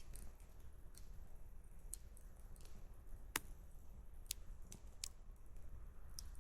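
Campfire crackling: irregular small wood pops and snaps, one louder snap about halfway through, over a low steady rumble.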